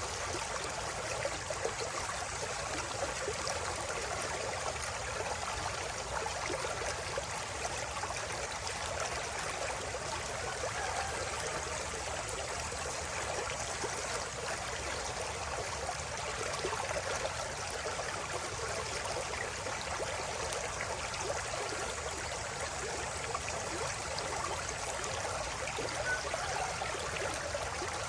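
River water running in a steady, unbroken babble, full of small gurgles and splashes.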